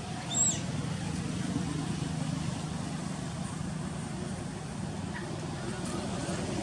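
Baby monkey giving one short, high squeal, rising then falling, about half a second in, over a steady low rumble like distant traffic.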